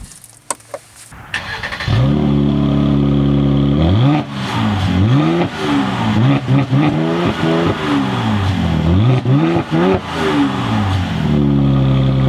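Mercedes-AMG GLC 43's 3.0-litre twin-turbo V6, fitted with the optional AMG performance exhaust, started with the push button: a few clicks, then the engine catches about two seconds in and runs loud and steady. From about four seconds in it is revved in a string of quick blips, each rising and falling in pitch, then settles back to a steady idle near the end.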